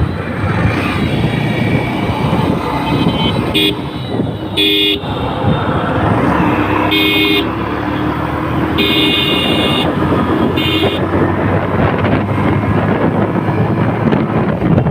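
Motorcycle riding along a highway, with steady engine, wind and road noise. A vehicle horn honks several times: two short toots about four and five seconds in, another about seven seconds in, a longer blast around nine to ten seconds, and a short one near eleven seconds.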